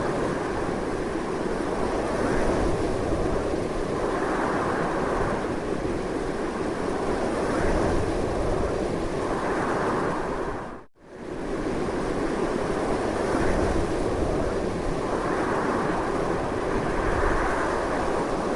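Strong wind blowing in a continuous rush that swells and eases in slow gusts. About eleven seconds in it drops almost to silence for a split second, then carries on unchanged.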